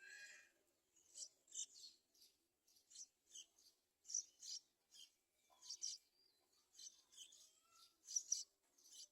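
Yellow-vented bulbul giving faint, short, high chirps, often in quick pairs, repeated about once a second.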